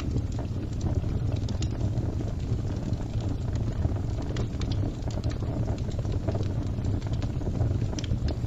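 Crackling fire: a steady low roar of burning with frequent small pops and snaps scattered throughout.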